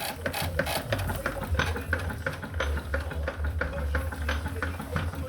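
3.5 inch scale twin-cylinder live-steam traction engine running, its motion making a fast, even clatter of clicks over a low hum.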